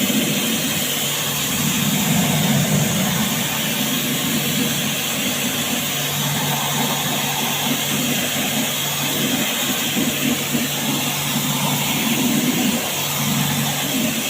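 Pressure-washer pump motor humming steadily while its water jet hisses, as in washing down a window air conditioner during servicing.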